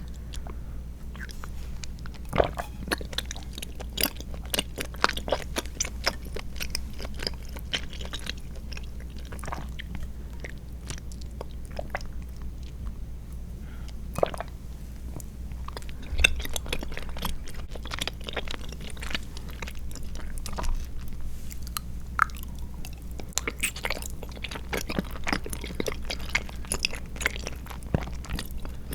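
Close-miked chewing of chewy tapioca pearls and milk jelly, with many irregular wet mouth clicks and smacks.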